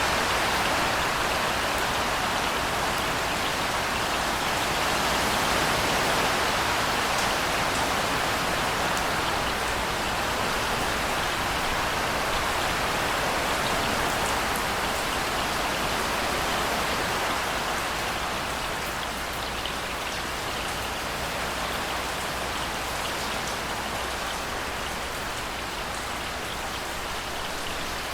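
Steady rainfall with scattered individual drops ticking on a surface, easing off slightly in loudness about two-thirds of the way through.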